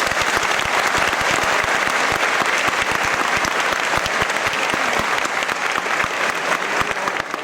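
Large studio audience clapping steadily on cue, just clapping with no cheering or whistling, recorded as applause for the broadcast.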